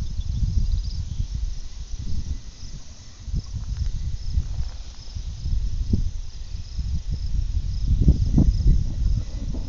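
Crickets chirping steadily in a high, even rhythm, under a gusty low rumble that swells and is loudest about eight seconds in.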